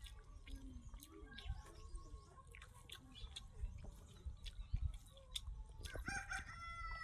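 Close-up eating sounds of chewing, lip smacking and food being handled. Near the end a rooster crows once, a long call that runs on past the end.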